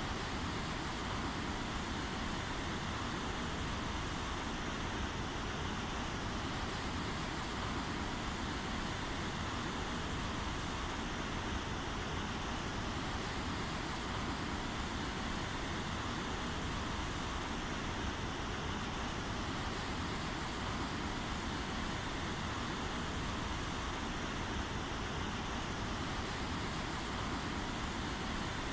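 Steady rainfall: an even, unbroken hiss, with no single drops, thunder or other events standing out.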